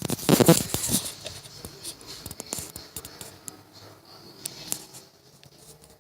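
Hands handling kitchen things: light scraping, scratching and a scatter of small clicks, with a louder rustling burst in the first second.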